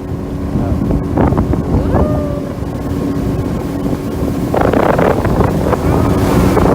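Small fishing boat's motor running steadily under way, a constant drone, with wind buffeting the microphone and a stronger gust about two-thirds of the way through.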